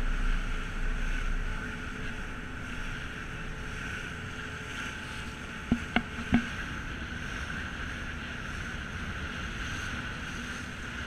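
Steady drone of a passenger ferry under way, with wind and water rush, broken by three sharp clicks close together a little past the middle.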